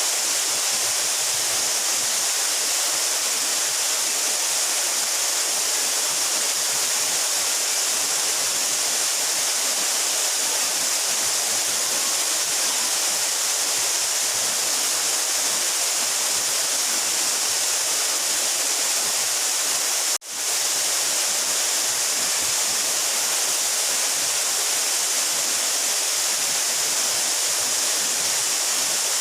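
Steady rushing of a 12-metre mountain waterfall, an even hiss strongest in the high range. About twenty seconds in it cuts out for an instant and fades back up.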